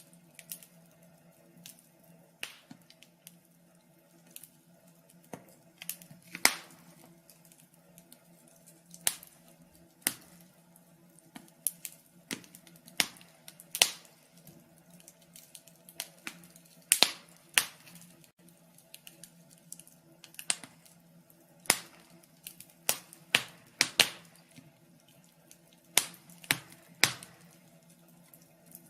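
Wood fire crackling, with irregular sharp snaps and pops of varying loudness, some close together in quick runs, over a faint steady low hum.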